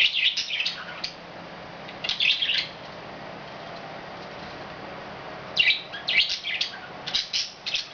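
Pet budgerigars chirping and chattering in quick bursts of high notes. A quieter lull falls in the middle, and the chatter picks up again busily near the end.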